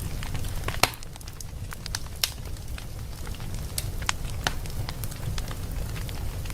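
Wood fire in a fireplace crackling and popping over a steady low rumble, with scattered sharp pops, the loudest a little under a second in and another just after two seconds.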